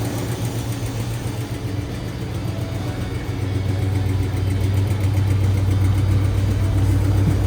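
Cadillac 472 V8 idling with valve chatter after sitting about six months unstarted, a sign of lifters that have bled down and are low on oil pressure. The running gets louder about halfway through.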